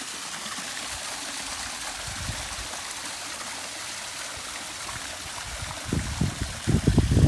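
Backyard pond waterfall running, a steady splashing and trickling of water. Low rumbling bursts come in near the end.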